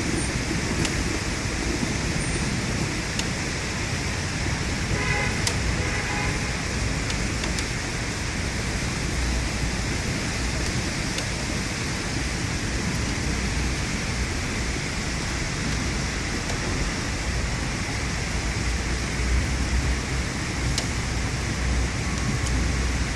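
Heavy thunderstorm rain pouring down, a steady loud hiss with a few sharp ticks of drops and a low rumble that swells now and then. A short pitched sound cuts through about five seconds in.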